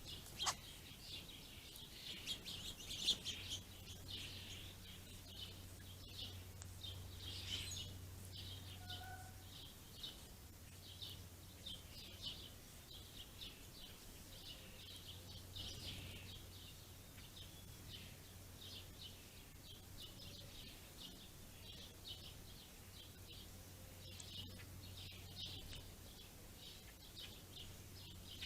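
A flock of small ground-feeding songbirds (house sparrows, house finches and pine siskins) chirping continually in short, rapid chirps. A faint low hum sits underneath in stretches.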